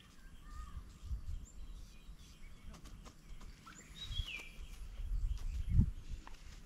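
A few short bird calls: one about half a second in, and a brighter, falling call about four seconds in. Under them is a faint outdoor background with a few low bumps, the loudest one near the end.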